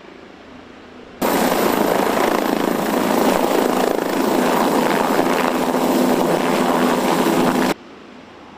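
MQ-8C Fire Scout unmanned helicopter running, its turboshaft engine and rotor making a loud, steady noise that starts abruptly about a second in and cuts off abruptly near the end, with a faint hiss before and after.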